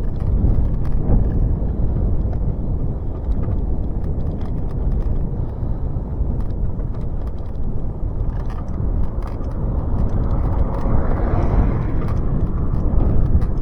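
Bicycle in motion with heavy wind buffeting on the microphone and tyre rumble, and faint irregular clicks over it. A broader rushing swell builds about ten seconds in and eases near the end.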